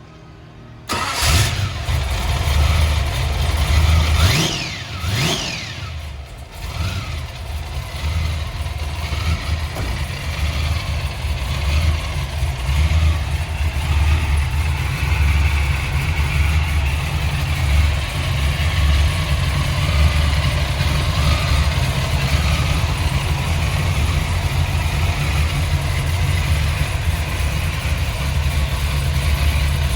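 A 1968 Dodge Charger restomod's engine starting: it catches about a second in, is revved twice a few seconds later, then settles into a steady idle with its exhaust running low and even.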